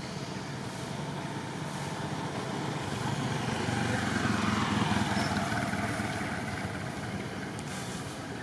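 A road vehicle passing by: its tyre and engine noise grow louder, peak about halfway through with a falling pitch, then fade away.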